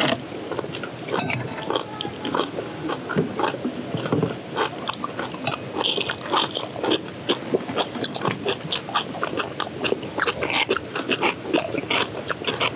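People chewing and biting into kimchi and rice with their mouths close to the microphone: a steady, irregular run of short crunches, wet smacks and chopstick clicks.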